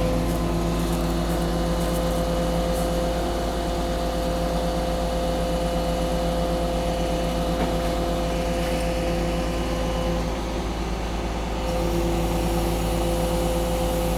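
Truck-mounted crane's diesel engine running at a steady speed, dipping briefly about ten seconds in before it settles back.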